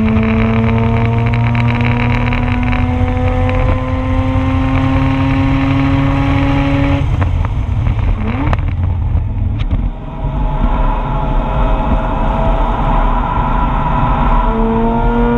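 Mazda RX-8's two-rotor rotary engine heard from inside the car at speed, its pitch climbing steadily for about seven seconds under load. The note then drops away into a rougher, quieter stretch before it starts climbing again near the end. A rattle from the camera mount runs underneath.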